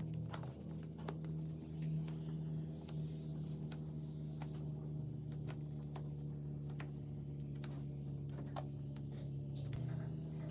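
A steady low hum, with light clicks and taps scattered through it at irregular intervals.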